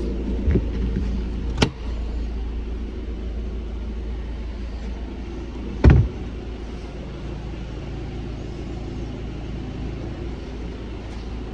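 Car engine idling steadily, with a few sharp knocks; the loudest comes about six seconds in.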